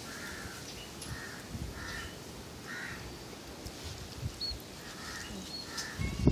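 A bird calling repeatedly in short calls, about one every half second to a second, with a pause of about two seconds in the middle.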